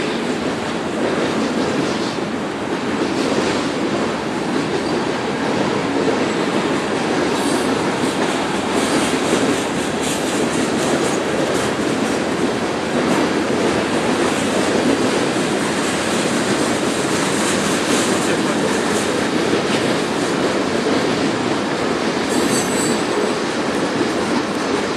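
Railroad cars of a passing freight train rolling by, a steady rumble with wheels clacking over the rail joints. Brief high-pitched squeals of steel wheels on the rail come and go several times.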